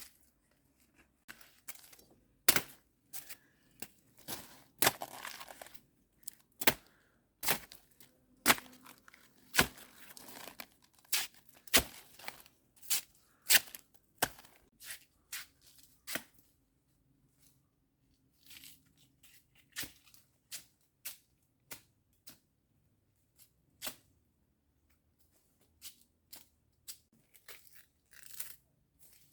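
A run of sharp, irregular snaps and short tearing sounds, several a second at first and thinning out in the second half.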